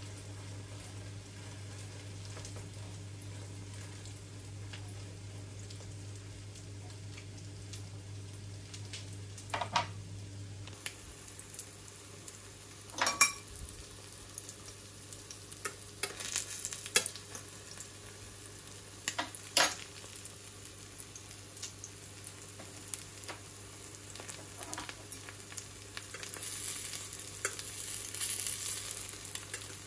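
Noodle-and-egg omelette mixture frying in hot coconut oil in a stainless steel pan, with a steady sizzle, while a fork stirs and spreads it. Several sharp clinks of the fork against the pan are heard, and the sizzle grows louder near the end.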